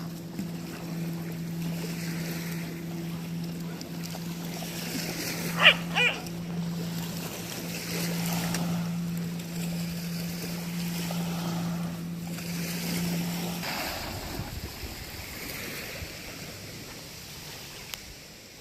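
A steady low motor hum over wind and water noise, cutting off suddenly about fourteen seconds in. Two short high yips come about six seconds in.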